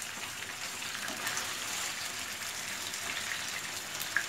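Paneer cubes shallow-frying in oil in a nonstick pan: a steady sizzle, with a spatula scraping and clicking against the pan as the cubes are turned. One sharper tap comes near the end.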